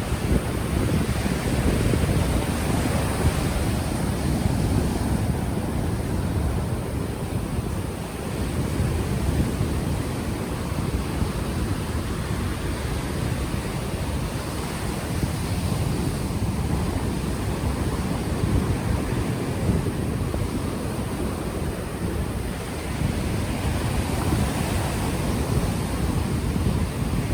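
Ocean waves washing onto the shore with gusts of wind buffeting the unshielded microphone, a steady low rumble that swells gently.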